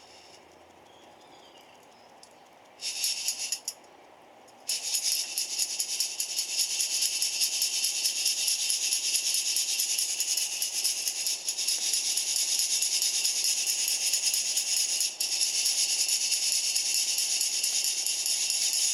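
Coffee beans rattling as they are shaken and tumbled: a short burst about three seconds in, then steady dense rattling from about five seconds in.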